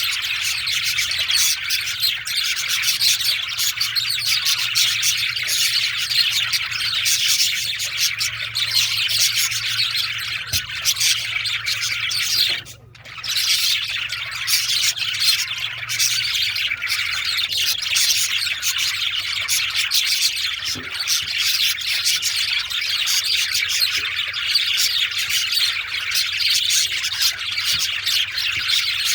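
Male budgerigars chattering and warbling without pause in a dense stream of fast chirps, broken once by a brief silence about halfway through.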